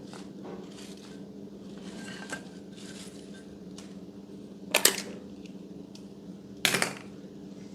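Slime being squeezed and pressed, with small crackles and two loud sharp pops of trapped air, one about five seconds in and one near seven seconds, over a steady low hum.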